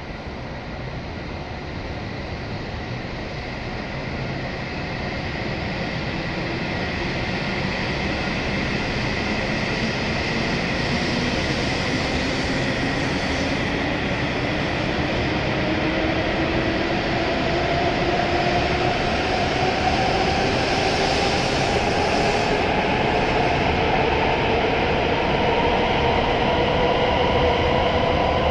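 W7 series Shinkansen trainset pulling away from the platform and accelerating. The traction motors whine, rising steadily in pitch over a growing rush of wheel and running noise, and the whole sound gets louder throughout.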